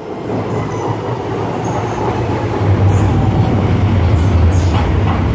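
Docklands Light Railway train running on the track, a low rumble that grows louder over the first three seconds and then holds steady, with a faint whine above it.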